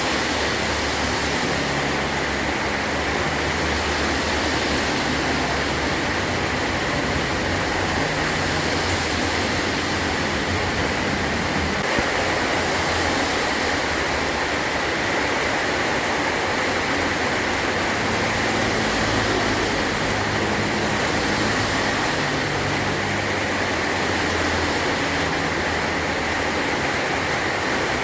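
Heavy rain pouring steadily on a metal roof, an even hiss, with a low rumble of distant thunder swelling and fading underneath every few seconds.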